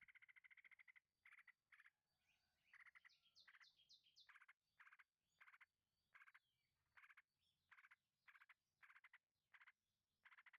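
Faint animal calls: short rattling trills repeating about twice a second, with a long trill at the start. About three seconds in comes a quick run of five rising, chirping notes.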